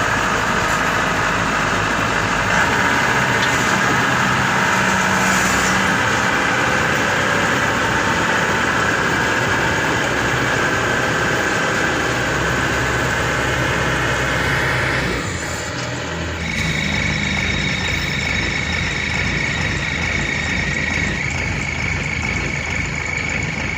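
Engine of a Maxxi Bimo 102 SS combine harvester running steadily. About fifteen seconds in the sound dips and a steady high whine comes in.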